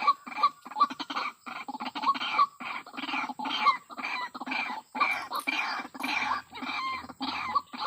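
White-breasted waterhen (ruak-ruak) calling: a rapid, continuous run of harsh, repeated croaking notes, about three a second.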